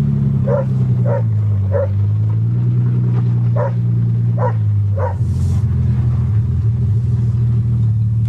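Toyota Cressida engine running as the car drives, heard from inside the cabin, its pitch dipping and shifting, most clearly about five seconds in. A dog barks repeatedly, about two barks a second, in the first five seconds.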